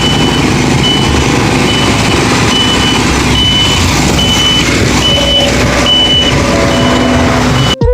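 Wind and engine noise of a moving motorcycle heard from on board, with a short high electronic beep repeating about every 0.8 s. The sound cuts off abruptly near the end.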